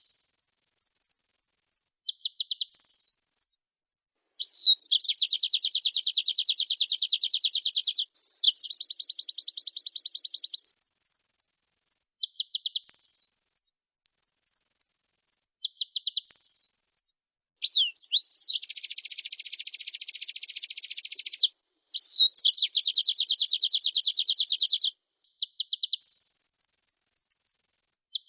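A white-eye (pleci) singing a loud, high-pitched song. Very high chirping phrases alternate with fast rattling trills and quick sliding notes, in phrases of one to three seconds that start and stop abruptly.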